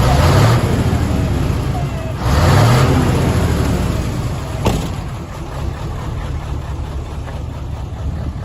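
Mitsubishi Fuso 8DC10 V8 diesel engine in a 1989 Fuso Great dump truck, revved up twice in quick succession and then running steadily at a lower speed. There is a single sharp click a little past halfway.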